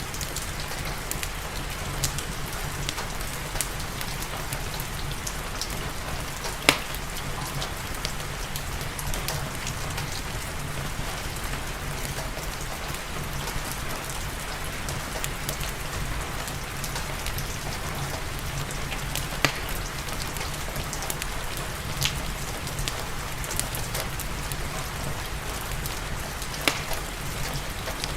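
Steady rain with the occasional sharp pop of a crackling wood fire in a fireplace, a few scattered pops, the loudest about a quarter of the way in.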